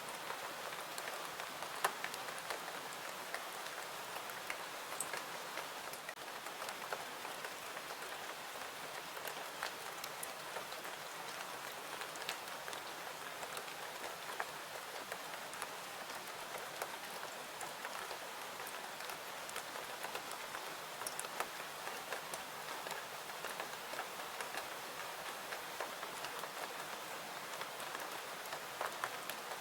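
Steady rain falling, an even hiss with many small, sharp ticks scattered through it.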